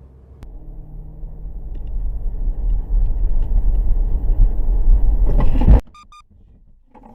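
Low vehicle road and engine rumble that builds steadily louder, then cuts off abruptly about six seconds in, followed by two short electronic beeps.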